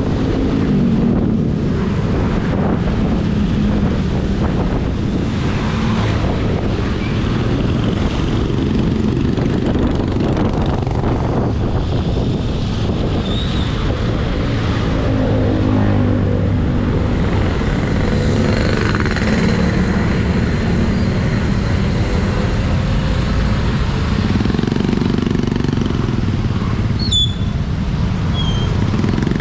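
Motorcycle engine running as the bike rides through traffic, its pitch rising and falling a few times, with wind noise on the action camera's microphone.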